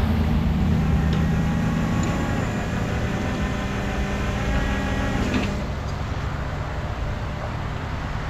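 Tow truck winch running under load, pulling the cable through a snatch block, with a steady whine over the truck's engine; it stops with a click about five and a half seconds in, leaving the engine running.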